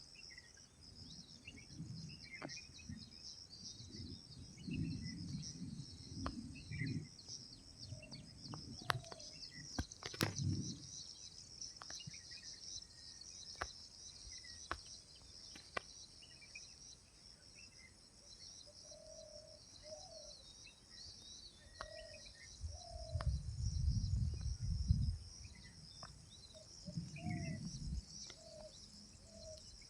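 A steady high chorus of chirping insects, with short bird calls scattered through it. Several low rumbles come and go, the loudest about three quarters of the way through, along with a few sharp clicks.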